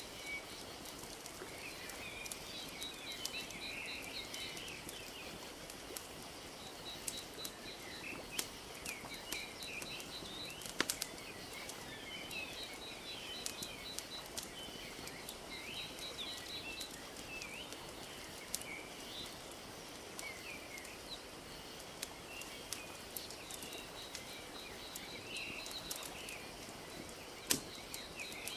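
Nature ambience of small birds chirping, with rapid trills repeating every few seconds, over a steady soft wash of lake water lapping, and scattered sharp pops and crackles of a wood fire.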